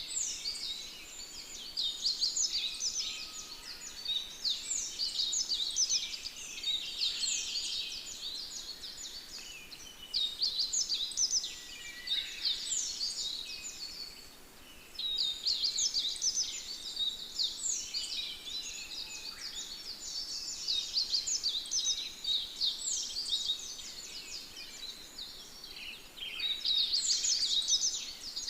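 Songbirds singing in a dense chorus of quick, falling high-pitched notes, in bursts of a few seconds with short lulls between them and a loud burst near the end.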